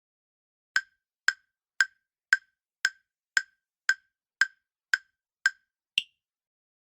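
Quiz countdown timer sound effect: ten sharp, wood-block-like ticks at about two a second, ending with one higher-pitched click.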